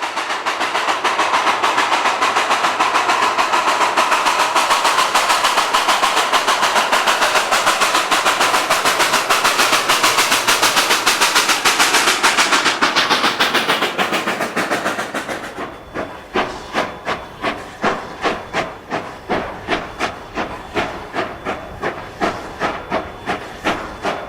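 Narrow-gauge steam locomotive working hard, its rapid exhaust chuffs under a loud hiss of steam. About fifteen seconds in the hiss falls away and the chuffs carry on, sharp and even, about three a second.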